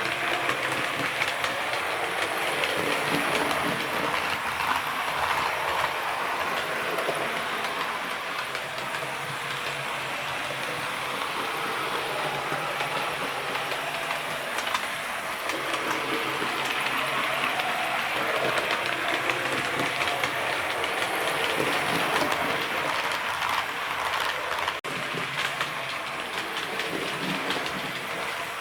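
Model train running steadily around a train set track: the wheels of the locomotive and carriages rattle and click on the rails.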